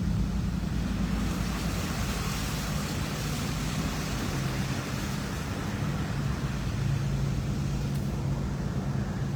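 A car being driven: steady tyre and road noise with a low, even engine hum.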